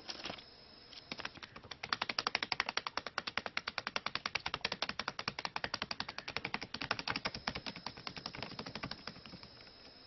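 A rapid run of sharp clicks or taps, several a second, starting about two seconds in and thinning out near the end.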